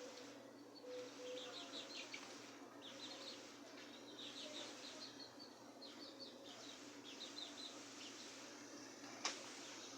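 Small birds chirping in quick runs of short high notes, a run every second or so, over a steady low hum. A single sharp click sounds near the end.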